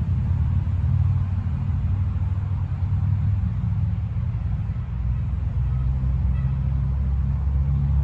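2007 Yamaha YZF-R1's inline-four engine idling steadily through a full Akrapovič exhaust system, a low, even note with no revving.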